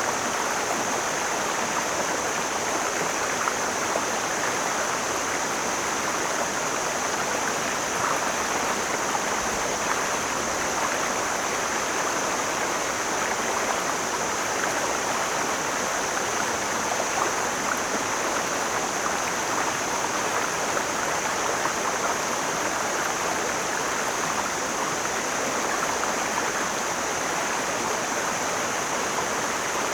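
Mountain stream flowing steadily over rocks, an even rushing of water.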